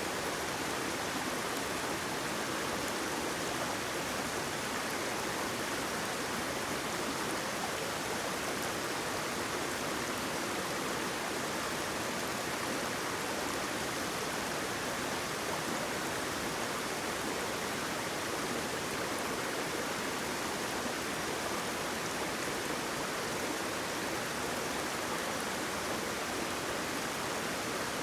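Waterfall: water falling and flowing in a steady, even rush.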